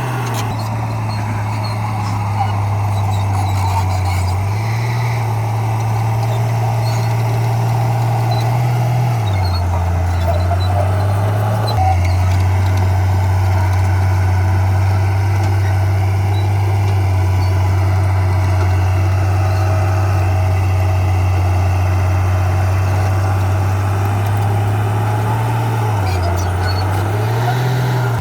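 Heavy earthmoving machine's diesel engine running continuously under varying load, its low drone shifting up and down in pitch several times as the throttle and load change.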